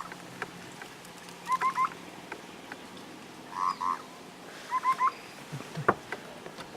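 A bird calling over and over, about once a second, alternating phrases of three short upswept notes with pairs of quavering notes.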